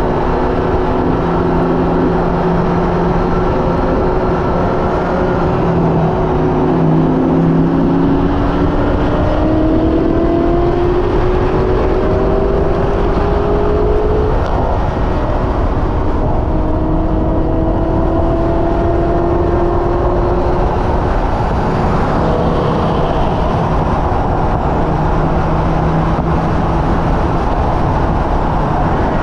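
Hyundai Elantra N's turbocharged 2.0-litre four-cylinder engine running hard on a racetrack, its note climbing in pitch twice under acceleration, over a steady loud rushing noise.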